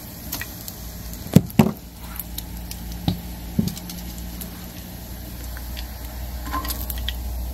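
Utensils knocking and clattering against a hot pan as cooked bacon is lifted off: two sharp knocks close together, then two more, over a low steady hum.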